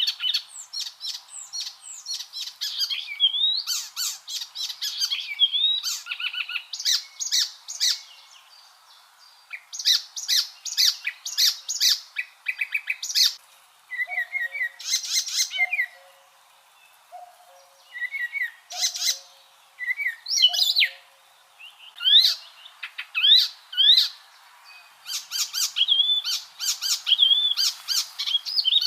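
Icterine warbler singing: a fast, varied song of chirps, trills, rising whistles and harsh notes in bursts, with short pauses between them. In the middle a faint low note repeats about once a second.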